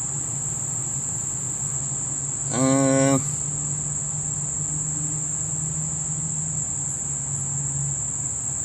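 Crickets chirring in a steady, high, unbroken drone, over a low steady hum. About two and a half seconds in, a brief pitched sound, under a second long, rises above them and is the loudest moment.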